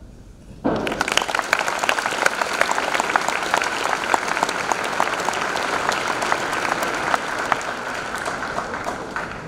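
Audience applauding. The clapping starts abruptly about a second in and dies away just before the end.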